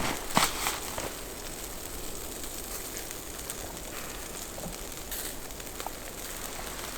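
Wood campfire crackling: a steady hiss with scattered sharp pops, the loudest about half a second in.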